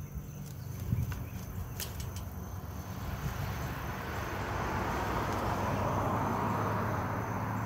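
A vehicle passing, its noise swelling over several seconds and loudest near the end, over a steady low hum. A few light knocks come about one and two seconds in.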